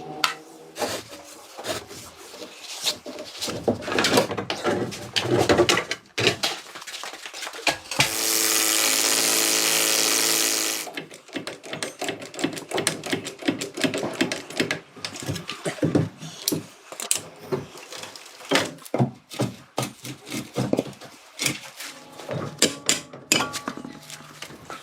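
Workshop tool sounds: a run of clicks and knocks, with a power tool running steadily for about three seconds near the middle.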